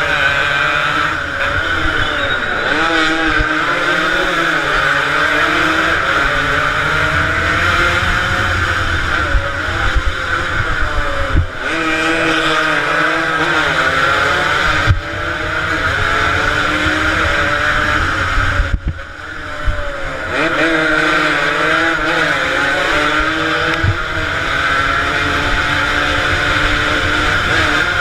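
Several two-stroke motorcycle engines revving hard as they race, their pitch repeatedly rising and falling as riders go through the gears; the uploader takes them to be mostly Yamaha RD 135s. The sound breaks off sharply for a moment a few times.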